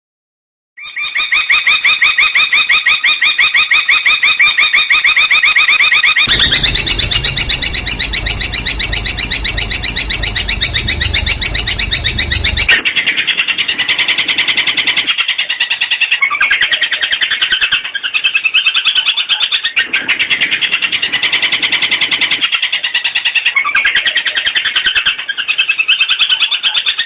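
Long-tailed shrike (cendet) song: loud, fast runs of rapidly repeated notes, the rapid-fire 'tembakan' style. The song starts about a second in and changes character abruptly twice, as separate recordings are spliced together, the middle stretch with added low background noise.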